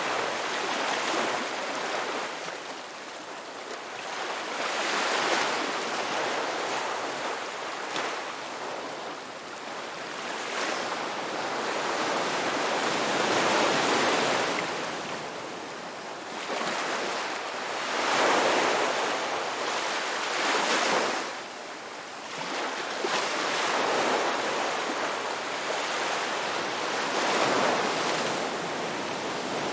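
Ocean waves breaking and washing on a rocky beach, the surf swelling and falling back every few seconds.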